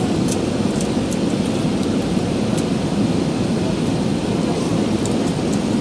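Steady low rumble of airflow and CFM56 engines heard inside the passenger cabin of an Airbus A320 in flight.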